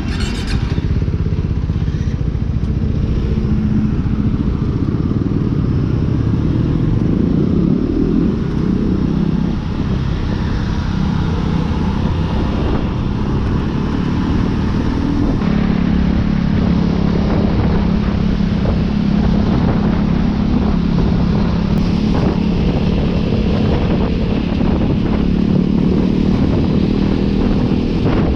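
KTM RC 390 single-cylinder engine running steadily on the move, with wind noise on the helmet camera's microphone; the engine note changes about halfway through, then holds steady.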